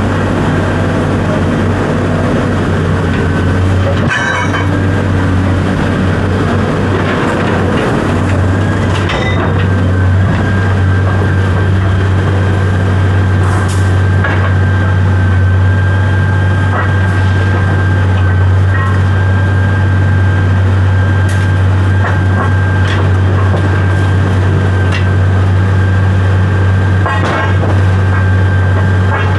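A vehicle engine drones steadily, with scattered short knocks and rattles.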